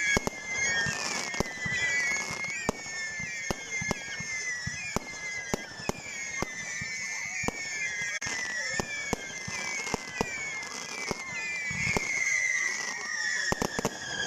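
Fireworks going off: a rapid, irregular run of sharp bangs and crackles over a shrill, wavering whistle that keeps sliding down in short glides.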